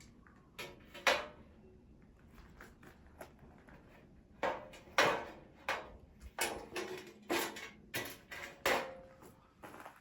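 Irregular wooden knocks and clatters, a couple near the start and then a quick run of about eight through the second half, some with a short metallic ring: firewood being handled and set into a metal fire pit.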